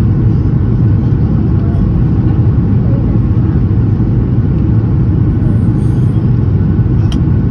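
Steady, loud low rumble of a Boeing 737 MAX 8's CFM LEAP-1B engines and airflow, heard from inside the passenger cabin during the takeoff climb. A short click sounds near the end.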